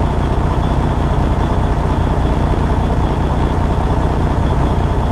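Steady low rumble of a semi-truck's diesel engine, with no change in pitch or level.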